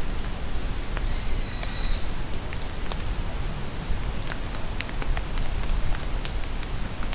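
Steady rain falling, with individual raindrops pattering close by. A bird gives a short warbling call about a second in, and a few brief high chirps come and go.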